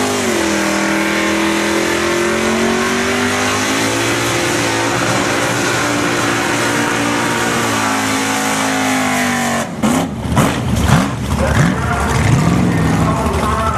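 V8 Holden Torana drag car doing a burnout, its engine held at steady high revs with the rear tyres spinning for about ten seconds. Then the revs drop suddenly and rise and fall in several short bursts as the car pulls away.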